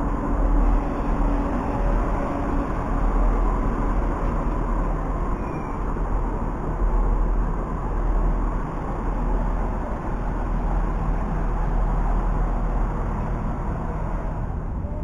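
Southern electric multiple-unit train moving slowly past along the platform edge, a steady running noise of wheels on rail.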